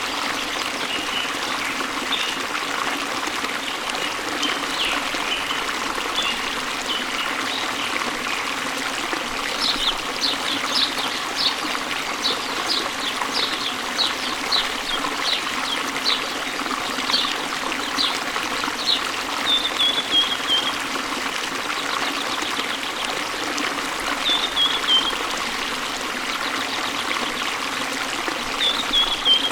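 Stream water flowing and trickling steadily, with birds chirping over it: scattered chirps at first, then a quick run of short high repeated notes, about two a second, from about ten seconds in, and a few brief falling trills near the end.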